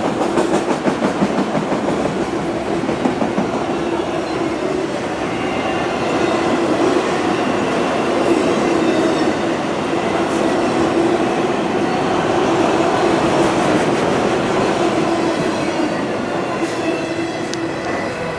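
A CSX freight train's cars rolling past: steady wheel-and-rail noise with a clickety-clack over the rail joints and a faint high wheel squeal. The noise eases off slightly near the end.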